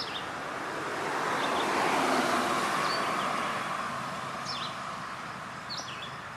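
A vehicle passing by, its noise swelling over about two seconds and fading again, with short high bird chirps at the start and twice near the end.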